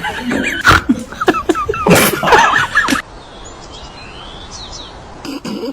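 A dog whining and yelping in short, high, squeaky cries, mixed with sharp knocks, cut off abruptly about three seconds in; faint high chirps follow.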